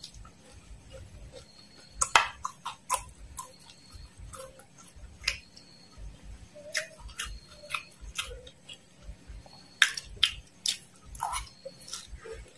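Close-up crunching of crisp fried worms and mole crickets being chewed: irregular sharp cracks and clicks, the loudest bunched about two seconds in and again near ten seconds.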